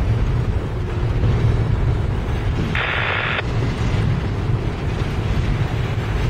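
Freight train of container-laden intermodal well cars rolling past: a steady low rumble of steel wheels on rail, with a brief hiss about three seconds in.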